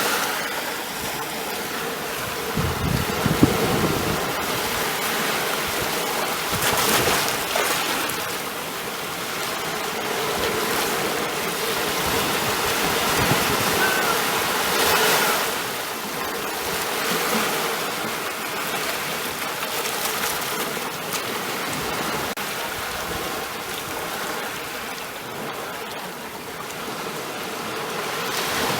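Ocean waves breaking and washing ashore, a steady rushing surf that swells and ebbs every few seconds.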